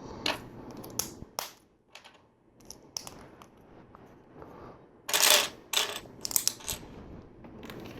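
Plastic LEGO pieces clicking and clattering as they are picked through and handled, in scattered separate clicks, with a louder run of clatter about five seconds in.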